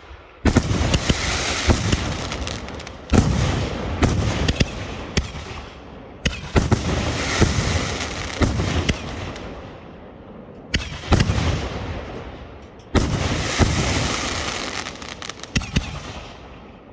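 Firework shells from a rack going off one after another: five loud bangs, each trailing off over a few seconds of dense crackle.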